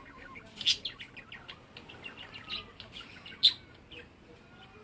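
Pet parrot chirping in a quick run of short chirps, with two sharper, louder calls: one less than a second in and one about three and a half seconds in.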